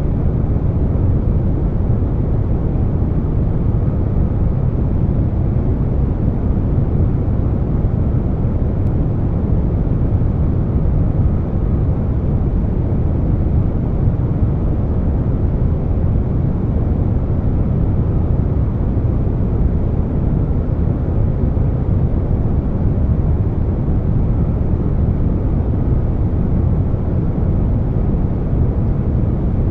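Air conditioner running steadily, blended with brown noise: an even, deep rushing rumble with no changes.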